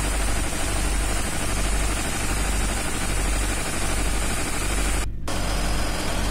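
Ship's auxiliary diesel generator engine running steadily with a loud hiss over its low hum. The mechanic takes this sound for a leak at the cylinder 1 injector, most likely its copper sealing ring or seal. The hiss cuts out for a moment about five seconds in.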